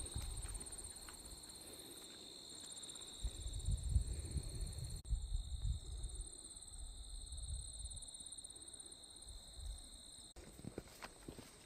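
Insects singing: a steady high-pitched drone with a fast pulsing edge, which stops about ten seconds in. Footsteps on a dirt trail and low rumbles sound beneath it.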